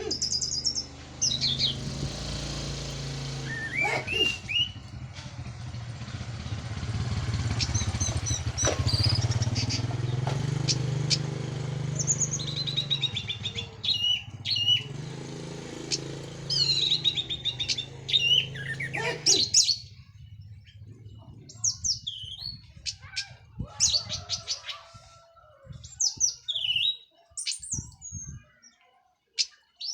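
Orange-headed thrush singing: a run of quick, varied high whistles, chirps and trills. A steady low hum sits under the song and stops about two-thirds of the way through.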